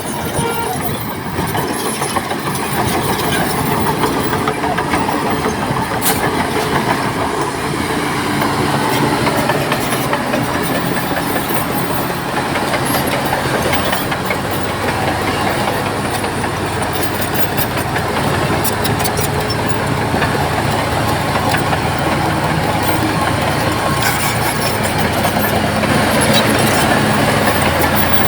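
Crawler bulldozer's diesel engine running steadily under load, with metallic clatter from its steel tracks; it gets a little louder near the end.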